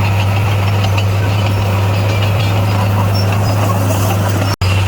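Bulldozer's diesel engine running steadily with a constant low drone. The sound cuts out for an instant near the end.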